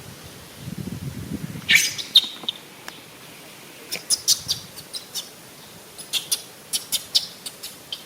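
A string of short, sharp, high-pitched chirps and squeaks in quick bunches, several a second, from an animal. Before them, about half a second in, comes a brief low muffled rumble.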